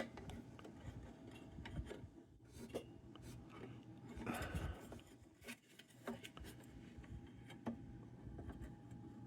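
Faint handling noises of lantern parts being worked on: scattered small clicks and taps, with a brief rubbing scrape about four and a half seconds in.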